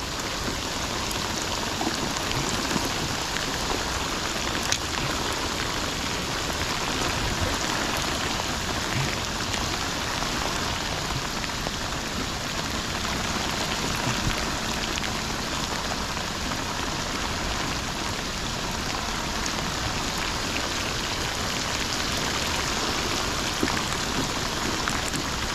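Steady heavy rain pouring down: an even, dense hiss with scattered sharper drop taps.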